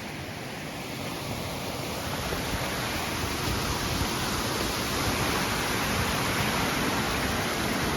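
Steady rush of a creek and small waterfall in strong flow after heavy rain, growing gradually louder.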